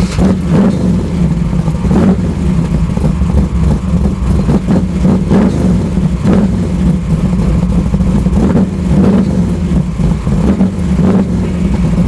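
A drag car's engine running loud and steady at high revs, its pitch held level, with irregular surges.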